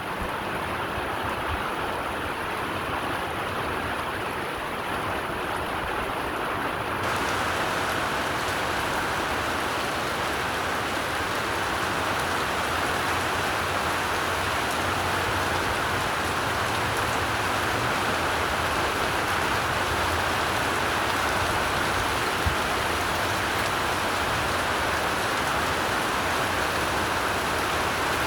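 Steady heavy rain falling: a dense, even hiss. About seven seconds in it abruptly turns brighter and a little louder.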